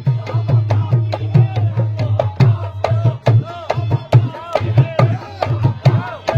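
Dholak drumming accompanying qawwali music: a fast, steady rhythm of sharp strokes over a deep, sustained bass tone, with a melody gliding up and down above it.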